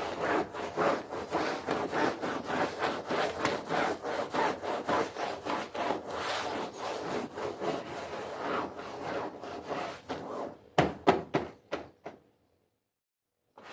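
A stiff brush scrubbing a wet carpet in quick back-and-forth strokes, about three a second, with a few harder strokes near the end before it cuts off abruptly about twelve seconds in.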